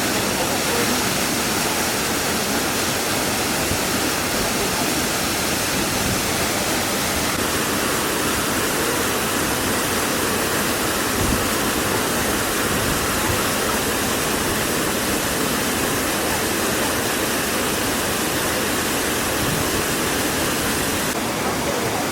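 A waterfall rushing, a steady, even wash of falling water with no change over the whole stretch.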